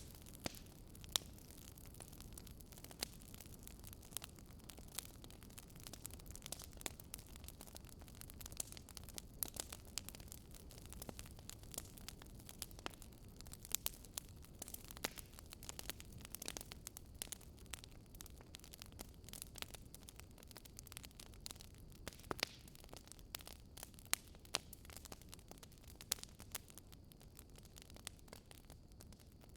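Wood fire crackling in a fireplace: irregular sharp pops and snaps over a soft, steady low rumble.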